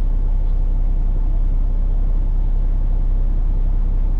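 Straight-piped, fully emissions-deleted PACCAR MX13 inline-six diesel running with a steady low rumble, holding an even speed throughout.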